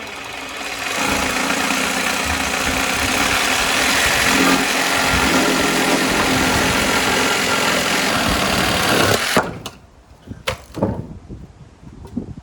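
Electric power tool running under load for about nine seconds with a steady motor whine, then cutting off suddenly, followed by a few sharp knocks.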